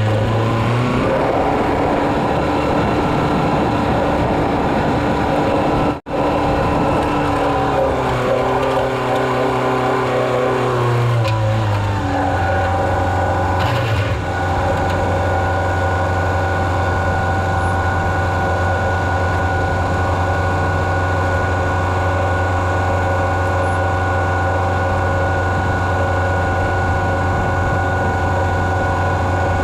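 Heavy farm vehicle engine running under load while spreading chicken litter; its speed rises about a second in, falls back around ten seconds in, then holds steady. The sound cuts out for an instant about six seconds in.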